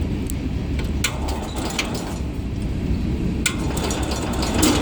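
Cub Cadet garden tractor's 10-horsepower engine running steadily, cold, with the choke partly on. A few light clicks sound over the engine.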